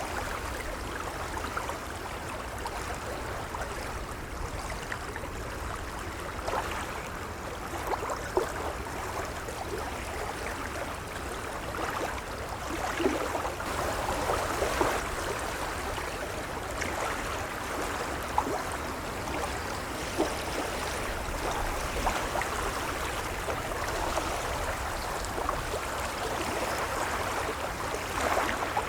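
Gentle waves washing and lapping: a steady wash of water dotted with small splashes, swelling a little about midway and again near the end.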